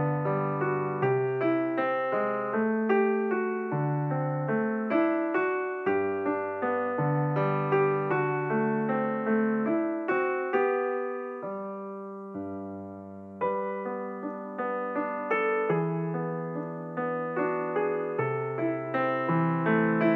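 Background piano music: single notes and chords struck one after another, each ringing and fading. About halfway through the playing thins and fades for a couple of seconds before a new phrase comes in.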